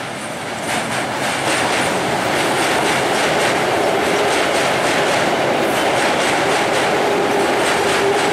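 Indian electric multiple-unit local train running over a steel truss bridge close by: a loud, continuous clatter of wheels over rail joints and bridge track. It swells over the first couple of seconds and then holds steady, with a faint steady whine underneath in the second half.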